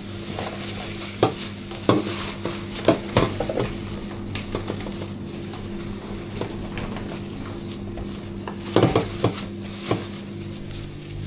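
Hand food-prep sounds while a purple-rice ball with taro paste and pork floss is assembled: continuous rustling and crackling, with a few sharp taps and knocks of utensils, over a steady electrical hum.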